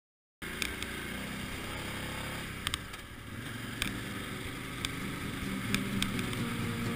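Adventure motorcycle engine running steadily while riding a dirt road, with wind and road noise on the bike-mounted microphone and sharp clicks now and then. The sound cuts in about half a second in, after silence.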